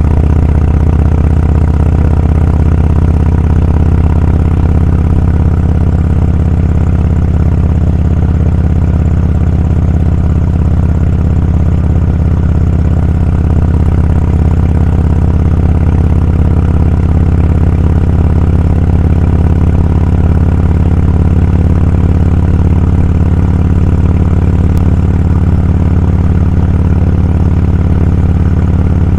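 Motorcycle engine running steadily, a loud low drone that holds an even pitch throughout.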